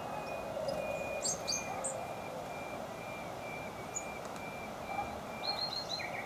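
Small wild birds calling: a steady series of short, even notes, about two or three a second, with quicker high chirps about a second in and a run of four quick notes near the end, over steady background noise.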